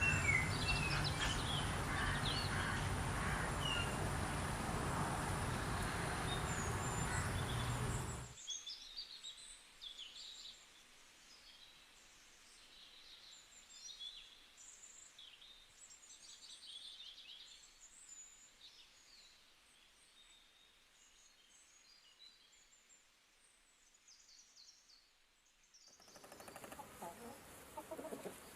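Small birds chirping and twittering. For about the first eight seconds the chirps are over a loud, steady outdoor noise with a low hum. The noise then drops away, leaving the chirps alone and quieter, and the noise comes back near the end.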